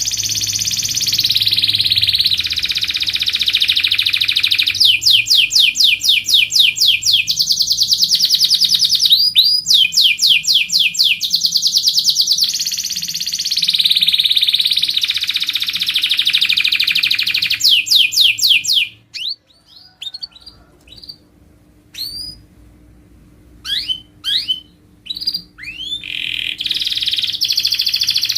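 Domestic canary singing a loud, continuous song of fast trills and rolls. About two-thirds of the way through, the song breaks off into a few scattered high chirps, then resumes near the end.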